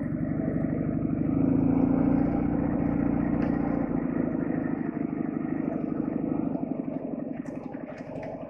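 Soviet flat-twin motorcycle engine running, growing louder about a second and a half in and then gradually fading away toward the end.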